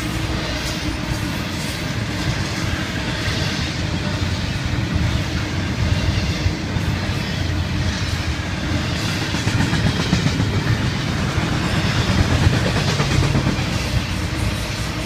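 Florida East Coast intermodal freight train's double-stack container and trailer cars rolling past at speed: a steady rumble of steel wheels on the rails, swelling slightly now and then.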